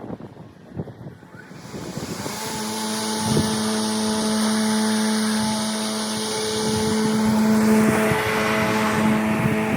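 A battery-powered electric lawn tool starts up about two seconds in and runs with a steady hum and a loud hiss. The hiss eases off near the end while the hum carries on.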